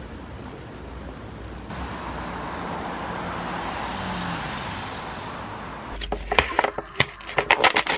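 A road vehicle passing: its noise swells and then fades. About six seconds in, a run of sharp clicks and scraping sounds starts.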